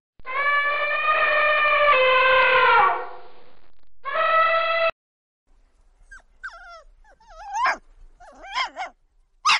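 Animal calls: a long, steady, howl-like call, then a shorter one, followed about five seconds in by a string of short, wavering, whimpering calls that slide up and down in pitch.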